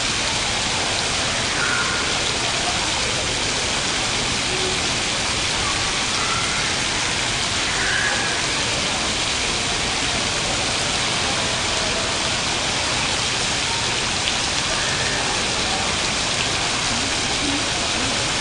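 Steady rushing and splashing of water falling from a digital water-curtain fountain, whose rows of electronically controlled valves release drops that form letters and shapes as they fall.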